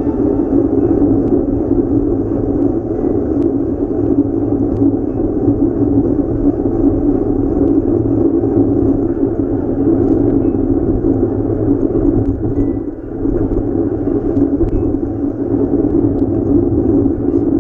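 Steady low rumble of riding noise, wind and road noise on the microphone while riding a bike, with a brief dip about thirteen seconds in.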